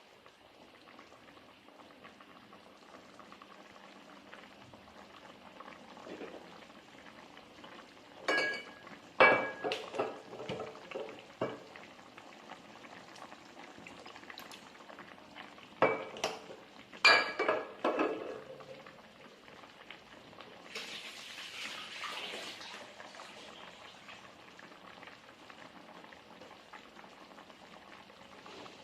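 Cutlery clinking against dishes in two quick clusters of ringing knocks, over a faint steady hiss; a short hissing wash follows near the end.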